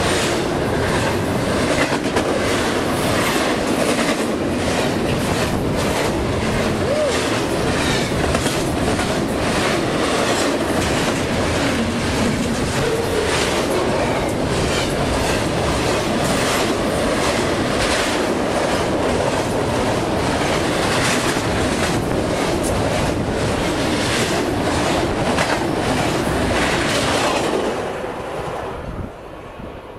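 Double-stack intermodal container freight train passing close by at speed, its wheels clicking rhythmically over the rail joints. The last car goes by near the end and the sound falls away quickly.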